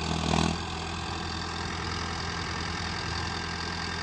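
Mahindra Arjun tractor's diesel engine idling steadily.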